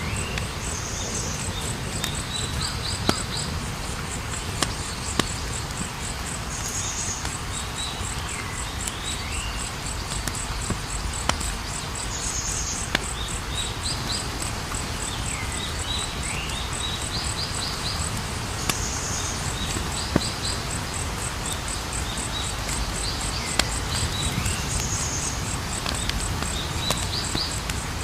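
Wood fire crackling, with a steady low rumble and scattered sharp pops. A cricket trills steadily and high, and a bird's short curved call with chirps repeats every five to six seconds.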